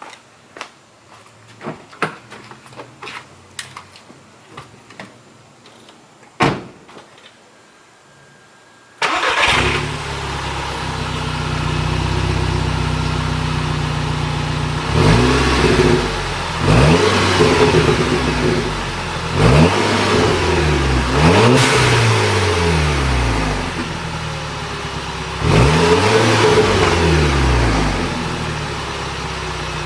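Volkswagen Mk6 GTI's 2.0-litre turbocharged four-cylinder, its exhaust running without the rear muffler, starting abruptly about nine seconds in, then idling and revved about five times, the pitch rising and falling with each blip. Before the start there are a few light clicks and one louder knock.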